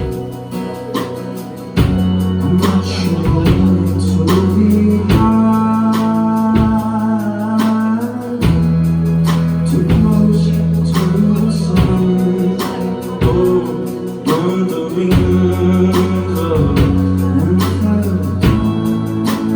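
Live rock band playing with a male vocalist singing, electric guitars and bass over a steady drum beat, in a club.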